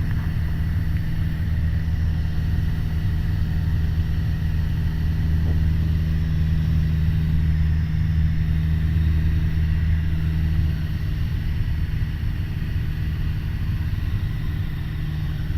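Piper PA-28 Warrior's four-cylinder Lycoming engine and propeller droning steadily in cruise on the downwind leg, heard from inside the cockpit. It eases slightly in level about two-thirds of the way through.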